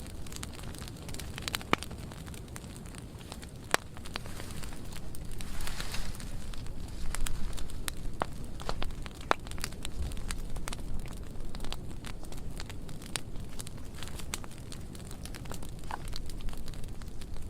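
Burn pile of dry pruned wood burning, with a steady low rumble and many sharp, irregular crackles and pops.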